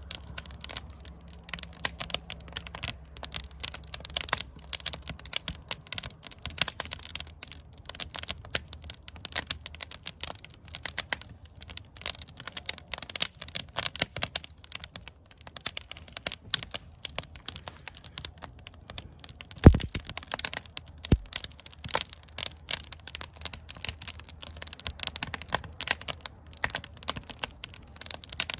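Wood fire in a fire pit crackling steadily as it burns old wood slabs and bark, with irregular sharp pops; one much louder pop about two-thirds of the way through, and a smaller one a moment later.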